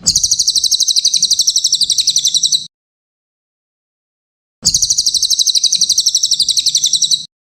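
Cililin (Javan hanging parrot) singing two rapid, high-pitched trills of about a dozen notes a second, each about two and a half seconds long, the second starting near the middle after a short silence.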